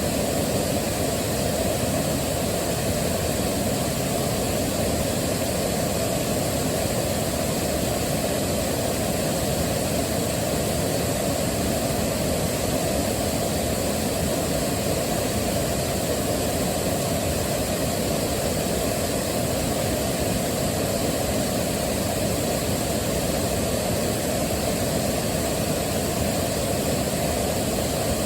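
Waterfall: a steady, unbroken rush of falling water, deep and full in the low range, with no change throughout.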